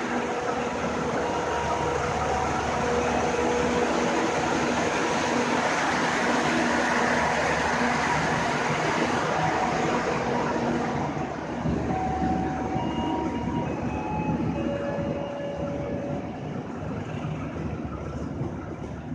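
Passenger train coaches rolling past along a station platform, their wheels rumbling on the rails, with a few steady whining tones on top. The sound holds steady for about ten seconds, then fades as the last coaches move away.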